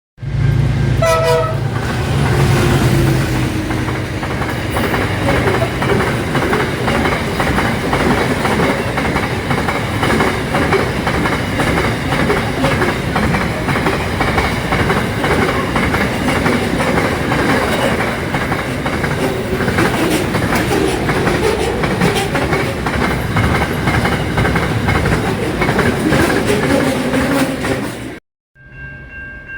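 A train passing close by, loud, its wheels clicking rapidly over the rail joints. The sound cuts off abruptly near the end.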